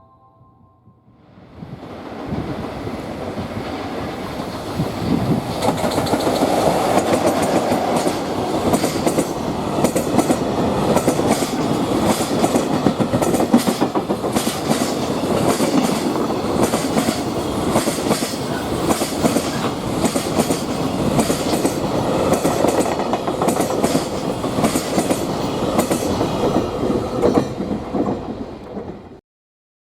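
Freight train of container wagons hauled by an EF66 electric locomotive passing close by: a steady loud rush of wheel and rail noise with rapid clickety-clack of wheels over the rail joints. It builds up about a second in and cuts off suddenly near the end.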